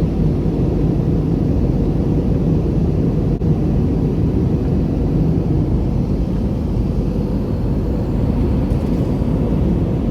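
Steady cabin noise inside an Airbus A320neo in flight: an even, low rushing of airflow and engines.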